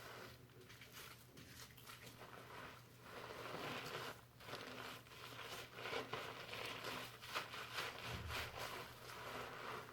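Fingers scrubbing shampoo lather through hair, giving a crackly, rustling foam sound in uneven strokes with a brief lull about four seconds in.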